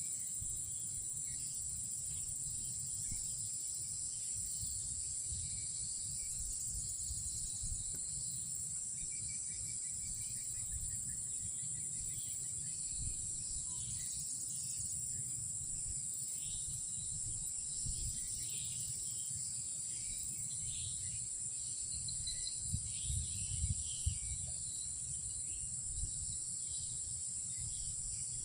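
Steady, high-pitched night insect chorus of crickets, unbroken throughout, with scattered shorter chirps over it and a low rumble underneath. A few brief louder knocks come about two thirds of the way through.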